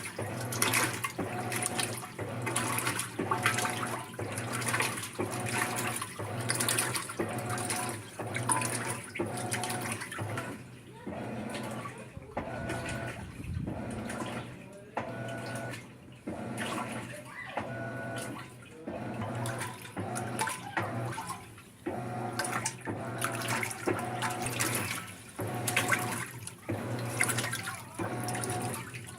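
Maytag top-load washer agitating during the wash step: the motor hums steadily while the agitator swishes the water back and forth in a regular rhythm. The stroke pattern changes partway through, as the agitator shifts speed.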